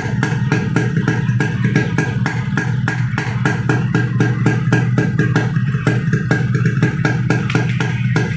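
Yamaha RX100 two-stroke single-cylinder engine idling through a brass-core muffler: a steady low hum with a regular putting beat of exhaust pulses.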